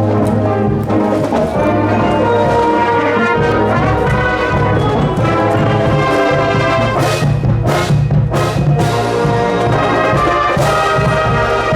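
A high school marching band playing a tune on brass instruments with percussion, with a few sharp percussion strokes around seven to eight seconds in.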